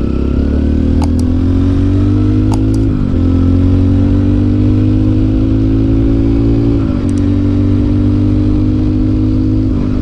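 Four-stroke motorcycle engine under way, revving up through the gears: its pitch climbs, drops at a gear shift about three seconds in, climbs again, and drops at a second shift about seven seconds in, then holds steady.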